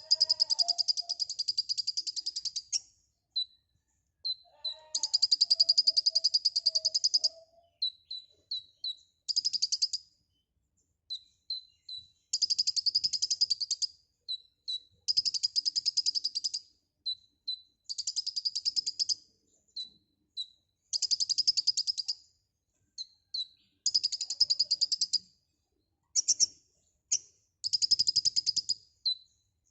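Brown-throated sunbird (kolibri ninja) singing: repeated bursts of fast, high chattering song, each one to two and a half seconds long, with short single chip notes between them. A lower wavering note runs under the song twice in the first several seconds.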